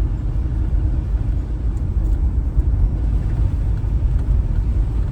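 Steady low rumble of a van's engine and tyres on the road while driving, heard from inside the cab.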